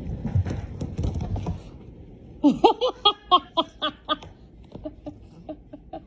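A person laughing in a run of short rhythmic bursts that begins about two seconds in, loudest at first and then fading to smaller breaths of laughter. Before it there is a low rumbling, knocking noise.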